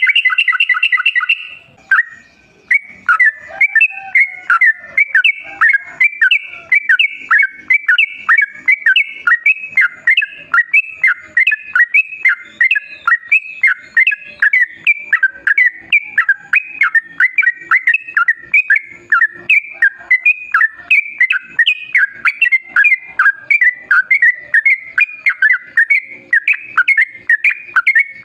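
Yellow-vented bulbul (trucukan) singing a long, rapid, unbroken chattering song of quick notes. A dense, louder burst of notes opens it, followed by a short break.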